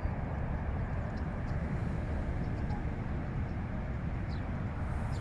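Wind rumbling on the microphone outdoors: a steady low noise with no distinct events.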